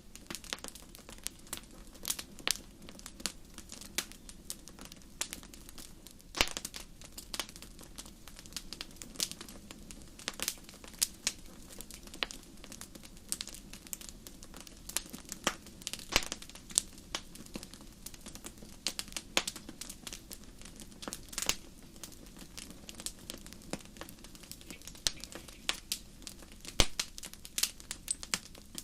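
Wood fire crackling in a fireplace: irregular sharp pops and snaps, some much louder than others, over a faint steady low background.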